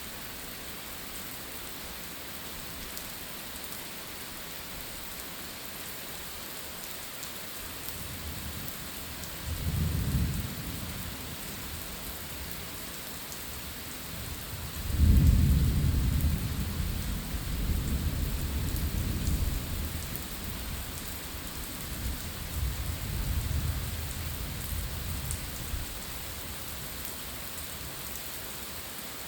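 Steady rain falling, with a short rumble of thunder about ten seconds in. A louder roll of thunder starts about halfway through and rumbles on for about ten seconds.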